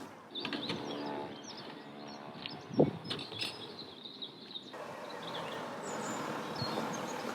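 Wild birds chirping and calling over outdoor background hiss, with a single sharp thump about three seconds in.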